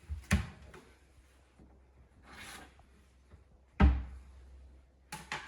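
Knocks and handling noise of a cutting board being fetched and set down on a kitchen counter, with one loud thump nearly four seconds in.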